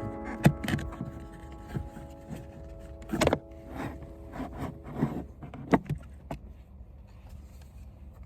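Irregular clicks and knocks, about ten of them and the loudest a little past three seconds, of plastic parts being handled around the car's cabin air filter housing. The last piano notes die away during the first second.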